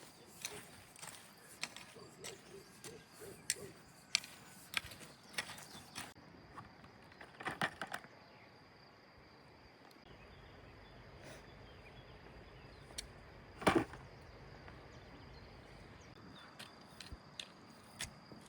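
Scattered light clicks and taps, thick for the first few seconds and then sparse. There is a louder knock about halfway and another about three-quarters of the way through, over a faint steady high tone.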